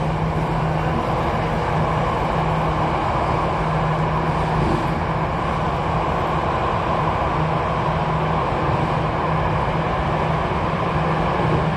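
Jakarta MRT train running, heard from inside the passenger car: a steady rumble with a constant low hum and no change in pitch or loudness.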